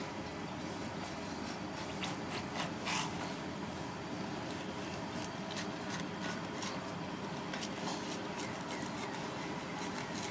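Kitchen work sounds: light clicks and clinks of utensils scattered over a steady background hiss, with a slightly louder clink about three seconds in.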